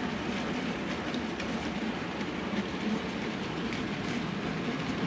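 Model trains running on a Hornby layout: a steady whirring of their motors and wheels on the track, with light scattered ticking.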